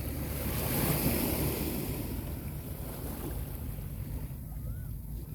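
Small sea waves washing up a beach, one swelling in about a second in and slowly fading back, over a steady low rumble of wind on the microphone.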